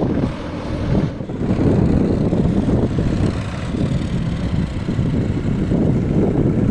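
Diesel tractor engine running with a dense, steady rumble.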